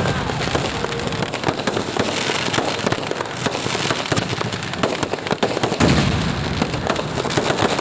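Fireworks going off in a dense, continuous crackle of many rapid pops, with a heavier low boom about six seconds in.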